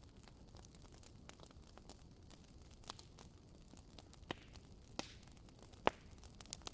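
Firewood burning in a fireplace, crackling: irregular sharp pops and snaps over a faint steady hiss, with a few louder pops in the second half.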